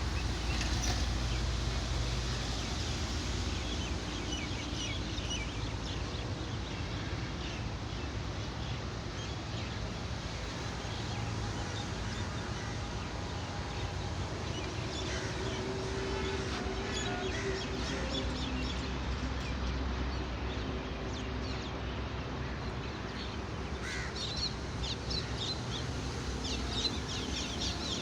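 Birds chirping and calling over a steady low rumble, with the chirping growing busier near the end.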